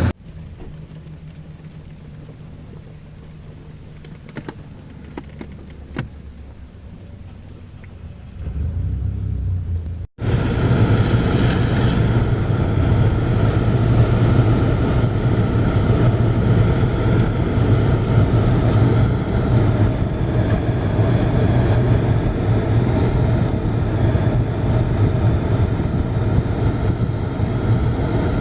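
Steady low engine-like rumble with a hum, starting abruptly after a cut about ten seconds in; before it, a fainter low hum with a few clicks.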